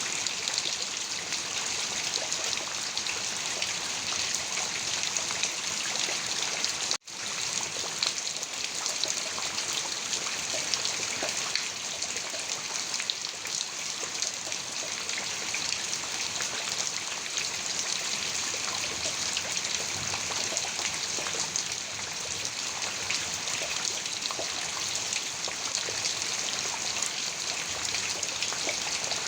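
Heavy rain pouring steadily, a dense even hiss of many drops. It cuts out for a split second about seven seconds in, then resumes.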